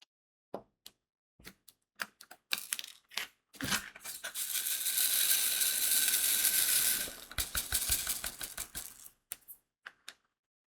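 Crystal diamond-painting drills clicking one at a time as they are set onto the canvas. About three and a half seconds in, a dense rattle of many beads in a plastic tray lasts about three and a half seconds and breaks into a quick run of clicks that thins out.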